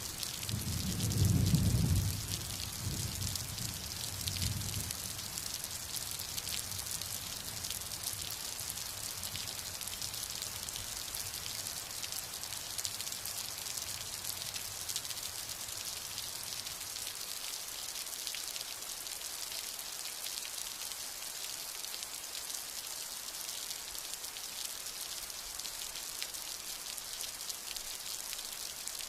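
Steady rain patter, with a low rumble of thunder starting about a second in, the loudest part, rolling on in smaller swells for a few more seconds before fading.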